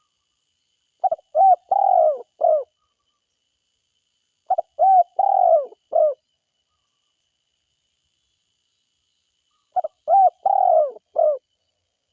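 Spotted dove cooing: three calls a few seconds apart, each a phrase of four notes with the third held longest.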